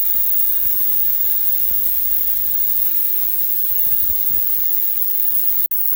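A steady machine hum with a few faint knocks from parts being handled; the sound drops out abruptly near the end.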